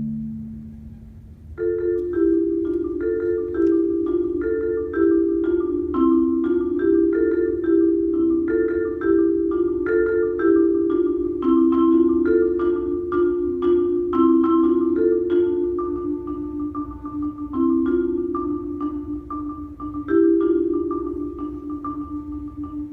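Solo marimba played with mallets: a low chord fades out, then about a second and a half in a quick pattern of struck notes and rolls starts, easing near the end into a softer, repeated single note.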